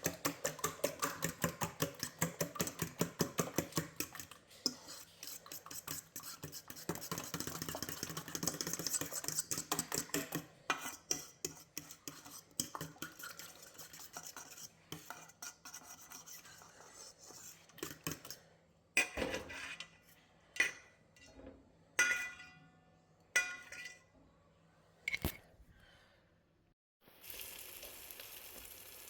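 Eggs and seasonings being whisked in a bowl: a fast, even clinking of the utensil against the bowl that later slows and turns irregular, followed by several louder single knocks. Near the end a steady frying sizzle starts up.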